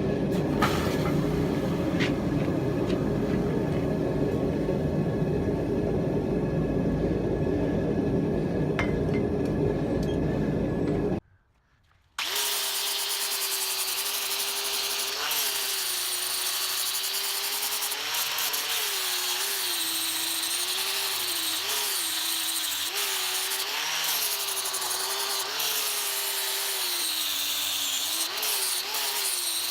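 A steady low rumbling noise for about eleven seconds, then a sudden cut. After the cut, a power grinder runs on metal with a steady whine that sags and wobbles in pitch again and again as the work is pressed against it.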